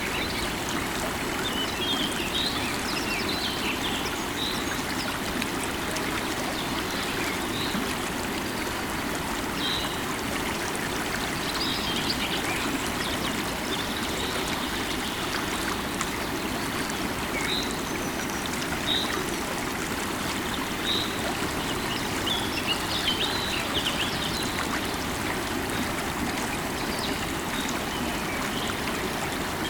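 Steady rush of a flowing river, with short bird chirps scattered throughout.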